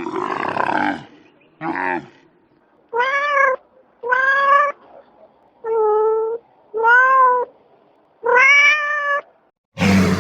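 A cat meowing: five drawn-out, clear meows about a second apart, after a rougher, lower call at the start. A loud, rough sound breaks in near the end.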